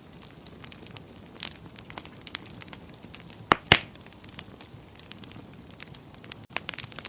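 Wood fire crackling in a fireplace: scattered small snaps and pops over a soft hiss, with two louder pops in quick succession about halfway through.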